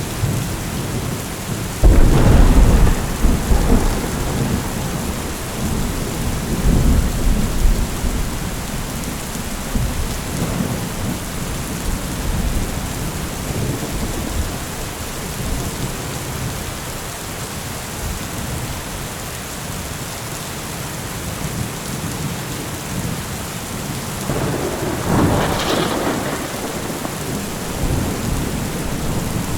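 Steady rain falling through a thunderstorm. A loud clap of thunder breaks about two seconds in and rumbles away over the next several seconds, and a second roll of thunder swells near the end.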